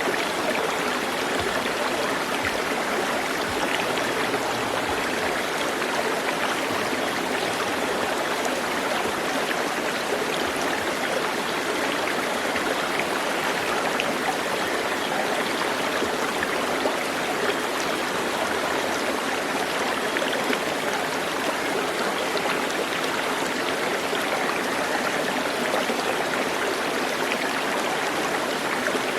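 Steady rush of a flowing stream, an even, unbroken wash of water noise.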